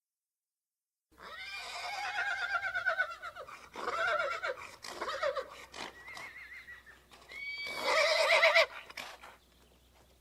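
A horse whinnying: several neighs in a row with a quavering, falling pitch, starting about a second in and fading near the end.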